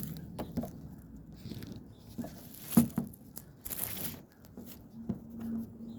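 Scattered light knocks and clicks with a short rustle about two-thirds of the way in, from objects being handled and set down in a small room.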